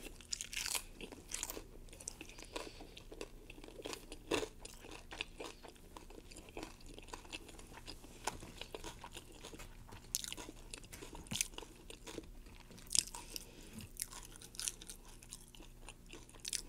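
Close-miked mouth sounds of eating nachos: tortilla chips crunching between the teeth and chewing, in irregular crisp crackles with a few louder bites.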